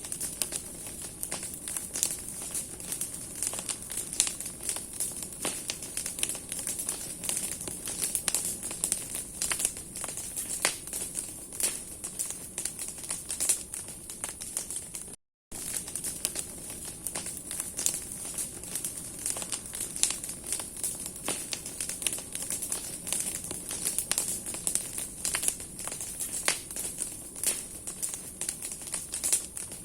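Bonfire of branches burning: dense, irregular crackling and snapping of burning wood over a steady hiss of flame. The sound cuts out for a moment about halfway.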